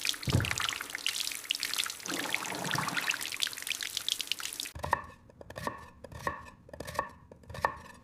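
Kitchen cooking sounds: a crackling, splashing noise of water or sizzling food, then from about five seconds in a run of sharp clicks, about four a second, each with a short ring, like a utensil working.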